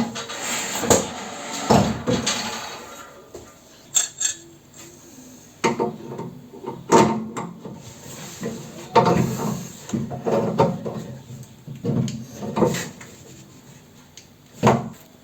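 Irregular clattering, knocks and short scrapes of metal pellet-stove parts being handled and cleaned by hand, with a longer stretch of scraping near the start.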